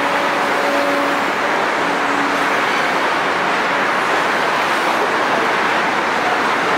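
A train rolling past close by: steady, loud wheel-on-rail noise, with a faint low hum that fades out about two seconds in.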